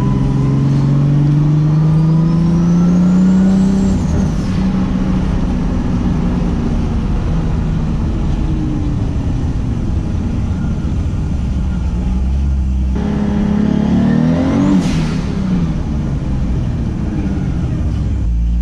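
Turbocharged 2JZ-GTE inline-six of a 900 hp Lexus SC300 pulling hard: the engine note rises with a high turbo whistle climbing above it, then falls away about four seconds in. A second pull rises to a peak near fifteen seconds, then settles to a steadier, lower running note.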